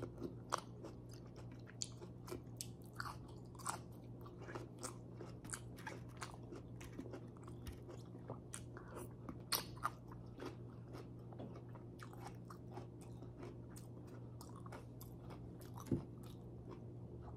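A person chewing food with her mouth close to the microphone: a steady run of small wet clicks and smacks, a few louder ones, over a faint steady low hum.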